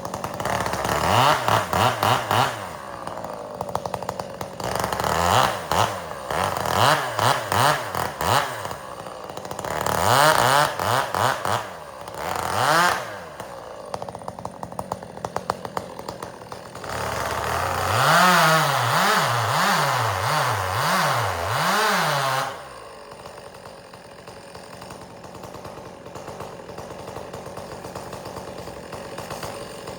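Gas chainsaw bucking firewood: the engine revs up and down in several bursts of a few seconds each as it cuts, then settles to a steady idle about two-thirds of the way through.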